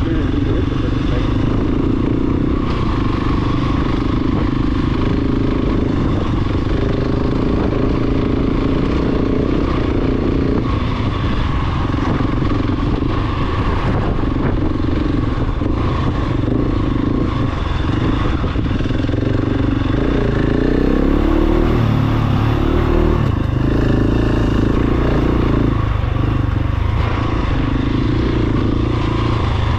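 Large single-cylinder dual-sport motorcycle engine running steadily while riding, its pitch shifting up and down with the throttle in the second half.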